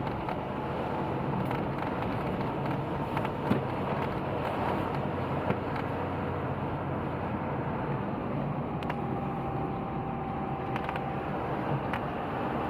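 A car driving, its steady rush of road and wind noise coming in through an open window, with a couple of sharp clicks in the first half.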